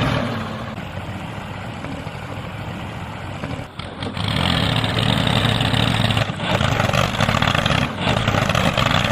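A motor running steadily, with a brief drop a little under four seconds in and a louder run after it.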